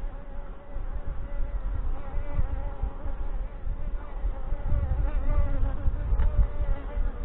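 Honey bees of a Saskatraz colony buzzing around an open hive during a frame inspection: a steady hum whose pitch wavers, with irregular low rumbling underneath.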